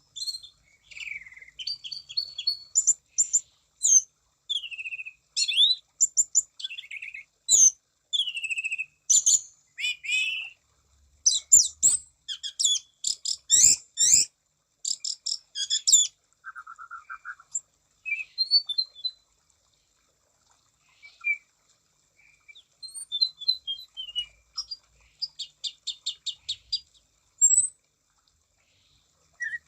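Orange-banded thrush (anis cendana) singing in full voice: a varied run of clear whistled phrases, downward glides and fast rattling note series, with a brief pause about two-thirds of the way through.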